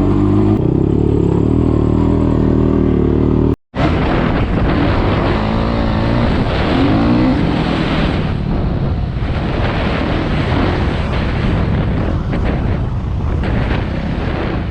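Single-cylinder off-road vehicle engine running while riding, holding a steady pitch for the first few seconds. After a brief dropout the sound turns rougher and noisier, with the pitch rising and falling.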